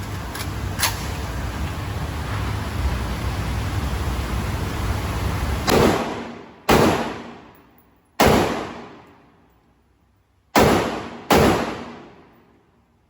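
Micro Draco AK pistol in 7.62×39 fired five single shots at uneven intervals, the first about six seconds in, each followed by a fading echo. Before the shots, steady background noise with two light clicks.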